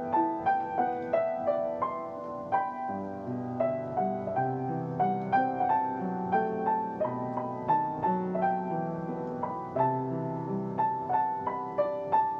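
Solo piano playing a gentle melody of single notes, about two a second, over lower sustained bass notes.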